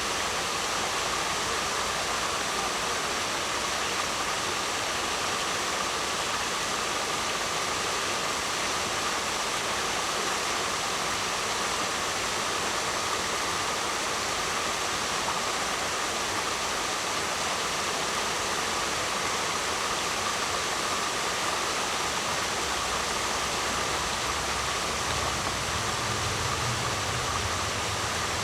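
Waterfall rushing steadily, an even continuous noise. A low rumble comes in about three quarters of the way through and stays to the end.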